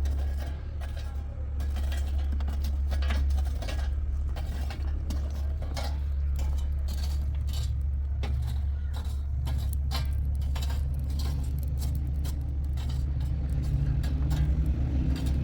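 A vehicle running with a steady low drone, with many light clinks and rattles scattered over it.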